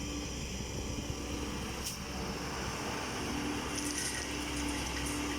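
Heavy diesel earthmoving machinery running steadily, a deep constant drone with a faint tone that comes and goes.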